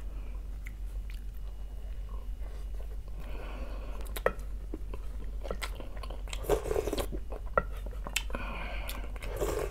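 Close-up eating sounds: chewing and biting on fish soup and a bread roll, with scattered sharp clicks and a couple of louder noisy bursts, one past the middle and one near the end.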